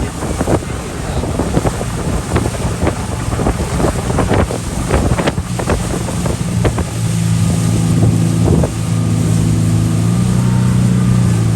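Motorboat running at speed, with wind buffeting the microphone and many short sharp knocks over the rush of noise. About seven seconds in, a steady low engine drone comes to the fore.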